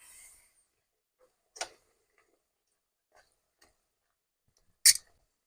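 Sharp taps of a cooking utensil against a frying pan while pooris deep-fry: one about a second and a half in and a louder one near the end, with a few faint ticks between.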